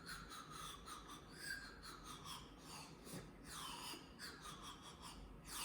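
A partly cut drinking-straw whistle blown with its end dipped in a glass of water, playing a faint, halting tune of short high whistled notes. Some notes slide down in pitch as the straw moves in the water, which changes the length of the vibrating air column.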